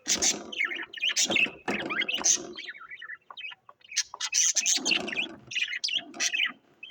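Small cage birds chirping and chattering in dense, irregular bursts with short pauses between them.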